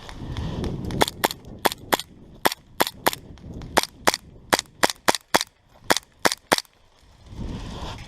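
Airsoft gun firing a string of single shots, about seventeen sharp cracks over five and a half seconds at an uneven pace, with rustling of movement before and after.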